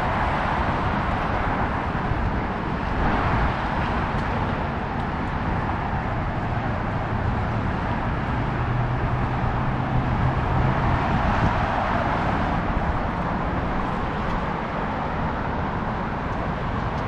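Steady road traffic noise, with a low engine hum from a passing vehicle swelling and fading between about eight and eleven seconds in.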